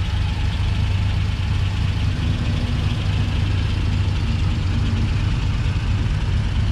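1965 Corvette's Rochester mechanical fuel-injected 327 V8 idling steadily, a low even rumble.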